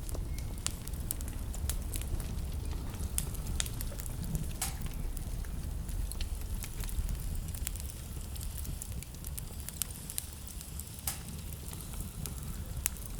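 Wood fire burning in a fireplace, crackling with irregular sharp pops a few times a second over a steady low rumble.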